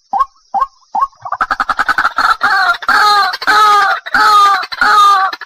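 White-breasted waterhen calling, as a lure call: short notes about two and a half a second, breaking about a second in into a rapid stutter that runs into longer, repeated loud calls.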